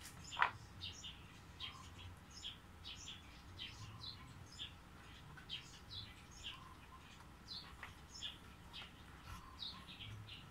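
Small birds chirping repeatedly, a few short high chirps a second, with one sharp click about half a second in.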